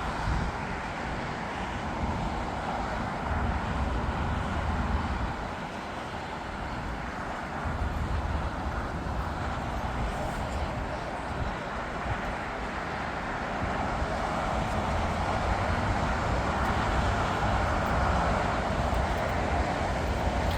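Jet airliner engine noise: a steady rushing rumble that grows louder through the second half.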